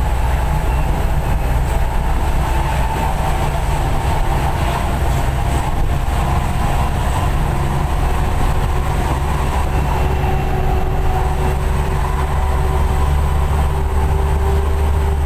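Steady low drone of a Mitsubishi bus engine with its 'serigala' aftermarket exhaust, heard from inside the moving bus along with road and cabin rumble.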